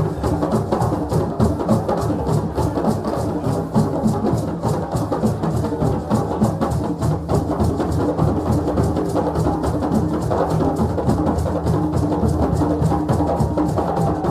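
Ensemble of West African drums playing together in a fast, dense, steady rhythm.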